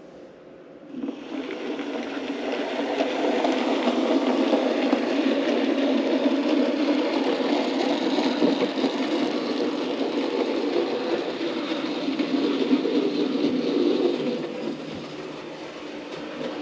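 OO gauge model locomotive running along the track: a steady rumble of the wheels and motor that swells in about a second in and eases off near the end.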